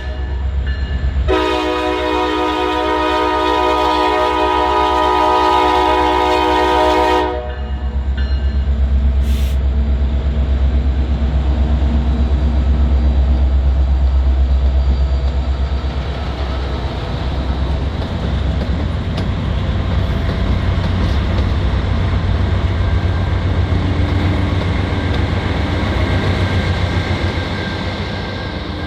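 Norfolk Southern diesel locomotive horn sounding one long blast of about six seconds, starting a second or so in, over the heavy low rumble of the locomotives' diesel engines. The rumble carries on after the horn stops, with faint clickety-clack of the train getting under way.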